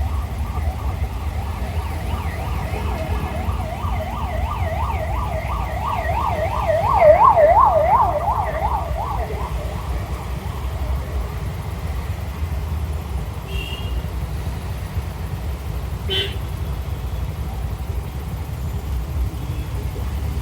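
Emergency vehicle siren in fast yelp mode, wailing up and down about three times a second, growing louder, then fading out about halfway through, over steady wind and road rumble. Two short beeps follow later.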